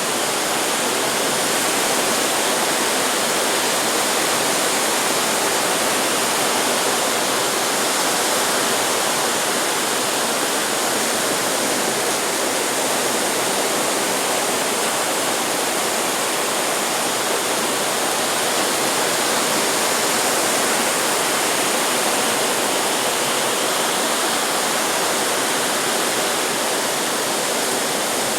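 Steady hiss of ocean surf, even and unbroken, without a clear rise and fall from single waves.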